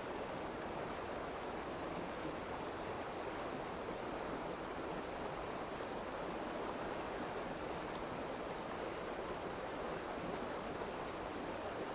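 Steady, even rushing noise with no speech and no change in level.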